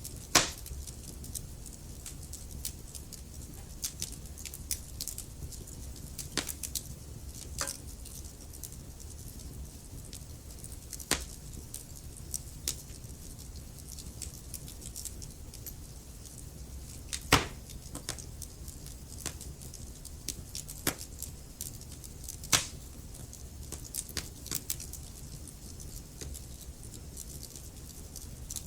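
Wood fire burning in a fireplace: a steady low rumble with irregular sharp crackles and pops, three of them louder than the rest, one just after the start, one about halfway through and one a few seconds later.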